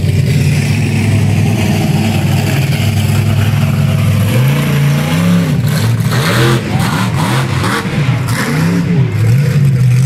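A truck engine idling steadily, then revved several times in quick succession from about four seconds in, each rev rising and falling in pitch, before dropping back to a steady idle near the end.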